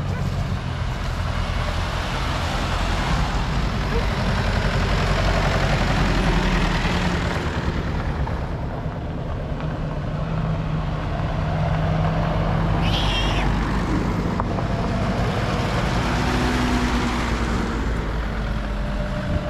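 Off-road 4x4's engine running while the vehicle drives, its pitch shifting a few times, over a steady rushing noise. There is a brief high squeak once, a little past the middle.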